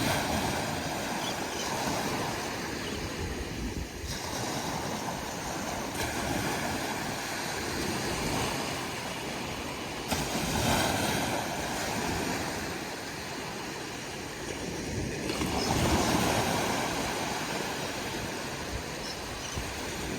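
Ocean waves breaking and washing on the shore, swelling louder every few seconds with the bigger waves.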